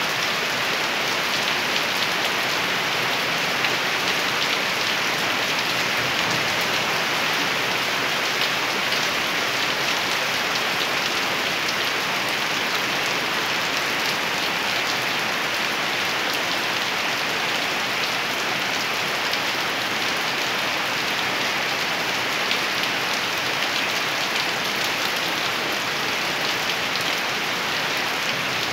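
Rain falling steadily, a dense, even hiss of drops hitting surfaces.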